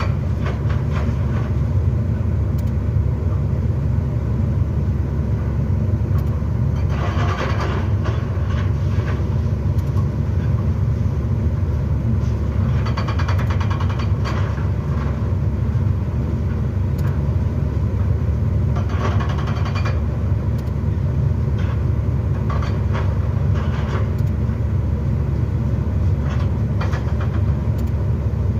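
Excavator's heavy diesel engine running steadily under load during demolition, with several one- to two-second bursts of crunching and clattering debris over the top.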